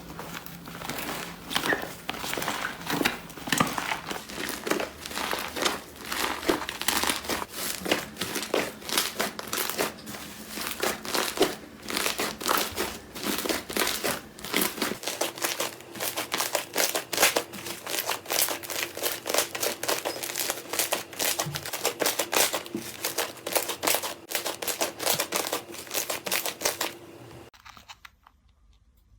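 Slime being squeezed and pressed by hand, making dense, rapid crackling clicks. The sound stops shortly before the end.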